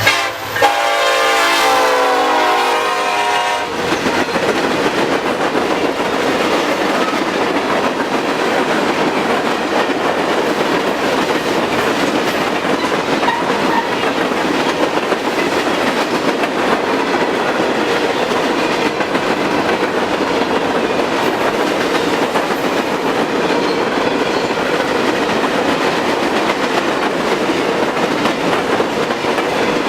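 A diesel locomotive's air horn blows a chord, briefly breaking near the start and stopping about three and a half seconds in. After that comes the steady rolling noise of a passing freight train, its wheels clacking over the rail joints.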